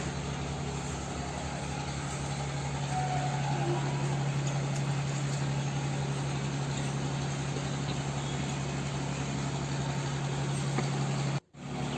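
A steady low mechanical hum with an even background hiss, cutting out for a moment near the end.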